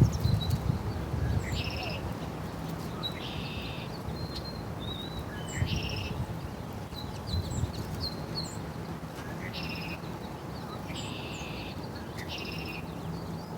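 Small birds chirping: short high chirps mixed with repeated buzzy, trilled calls about half a second long, over a low rumble.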